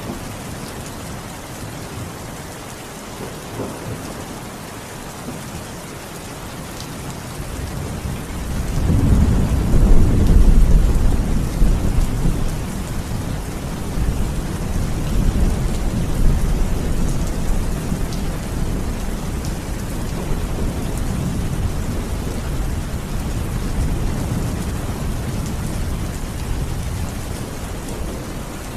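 Steady rain falling, with a long low rumble of thunder swelling up about eight seconds in, loudest for a few seconds, then rolling away slowly under the rain.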